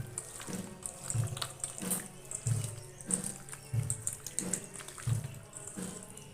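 Wet squelching of raw chicken being mixed by hand in its spice-paste and mustard-oil marinade, over background music with a steady beat of about one and a half thumps a second.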